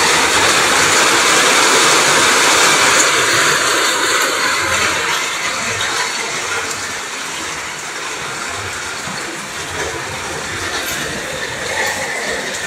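Heavy rain pouring down with running water, a steady rush that eases slightly about halfway through.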